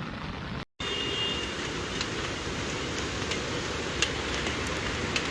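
Steady rushing noise of heavy rain and floodwater, with a few faint ticks; it drops out briefly less than a second in, then carries on unchanged.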